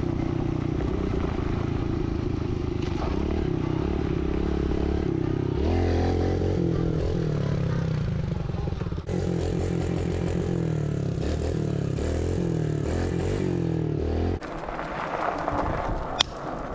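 Kawasaki KLX110 dirt bike's small single-cylinder four-stroke engine under riding, its revs climbing and dropping again and again as it is throttled and shifted through the gears. The engine note falls away suddenly about fourteen seconds in, and there is a single sharp click near the end.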